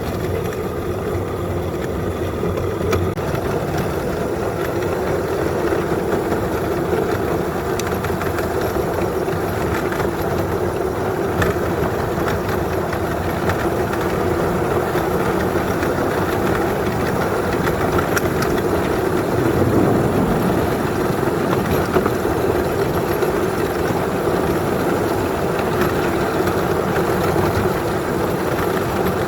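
Small backyard-railroad locomotive, pushing a snowplow, running steadily along the track, its engine noise mixed with the rumble of the wheels on the rails.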